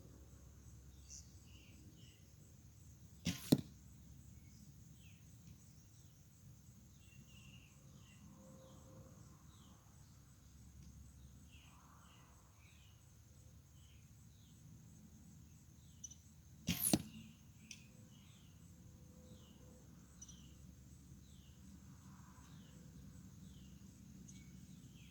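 Two shots from a 50-pound Junxing F166 ILF recurve bow, about 13 seconds apart, each a sharp crack of the string with the arrow striking the target a split second later. Faint short chirps repeat throughout.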